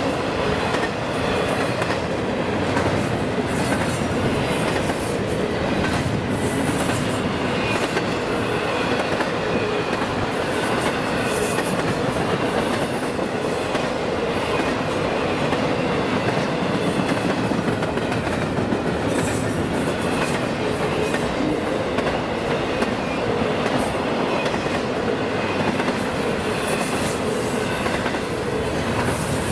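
Railroad cars of a passing train rolling steadily along the track, their wheels clicking over the rail joints, with a faint squeal of wheels against the rails.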